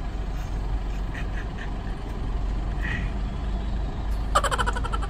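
Steady low rumble of an idling car. A brief loud, rapidly pulsing high-pitched sound comes near the end.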